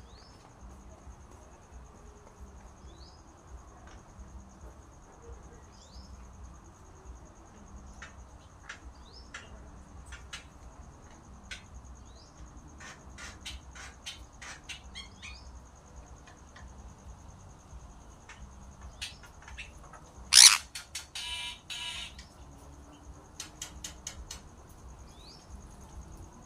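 A caged or captive bird calling: short falling chirps every few seconds and scattered sharp clicks, with one loud, sharp call about twenty seconds in followed by a brief raspy call. A steady high-pitched tone runs behind it throughout.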